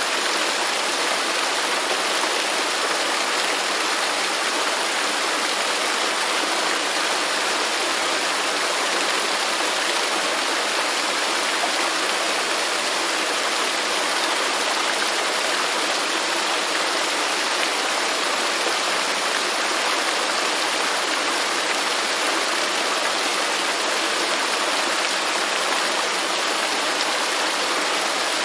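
Waterfall, water falling in a steady, unbroken hiss.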